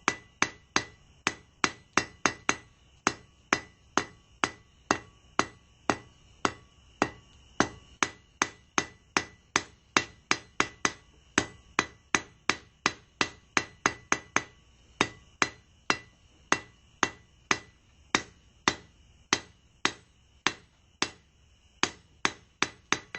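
Hand hammer striking hot steel bar on an anvil, about two blows a second, each with a short metallic ring: drawing out a 3/8-inch square bar to a sharp taper.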